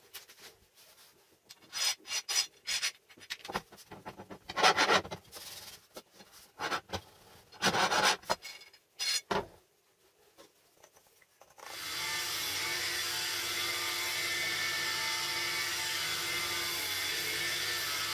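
Irregular hand strokes rubbing across wood, like filing or sanding. About two-thirds of the way through, an electric power tool starts and runs steadily.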